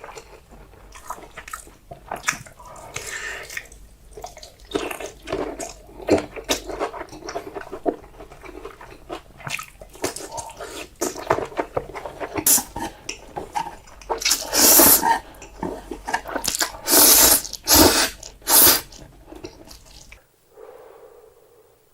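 Close-miked eating sounds: instant noodles being slurped and chewed, with several long, loud slurps in the second half, then the sound drops away abruptly near the end.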